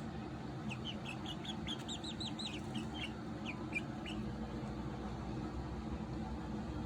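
Young chickens peeping: a run of short, high peeps, about four a second, from about a second in until about four seconds in, then stopping.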